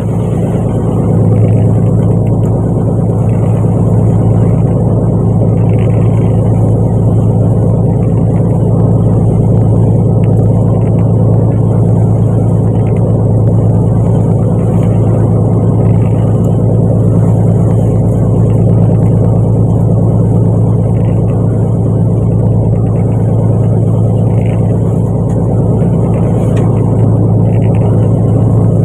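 Fishing boat's engine running at a steady speed: a loud, constant low drone that does not change.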